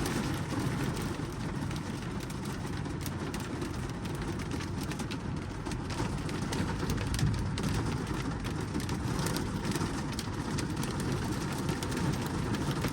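Heavy rain pelting the roof and windows of a truck cab, heard from inside: a steady hiss and patter with many small hits.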